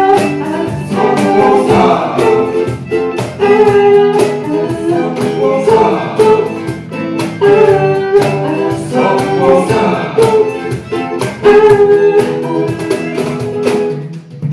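A live rock band playing: guitars over a steady drumbeat, a passage between the song's sung lines.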